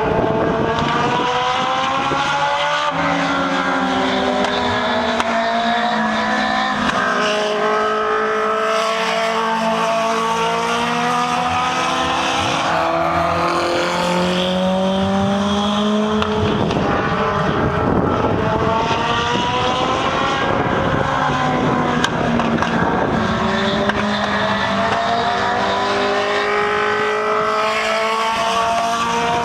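Several Legend race cars running laps together, their motorcycle-derived engines rising in pitch as they accelerate and falling as they lift off, over and over, with the different cars' engine notes overlapping.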